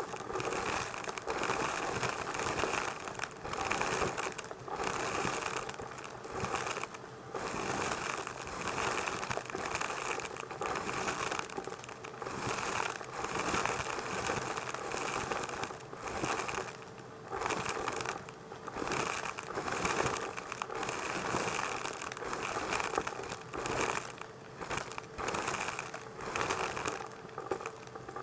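Numatic tub vacuum cleaner running with a steady motor whine, its suction noise swelling and fading every second or two as the floor tool is pushed back and forth.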